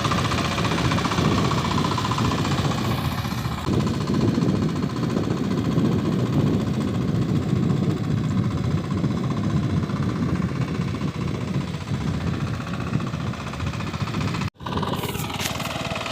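Power tiller's single-cylinder diesel engine running steadily with a rapid chugging beat. The sound drops out for an instant near the end, then carries on.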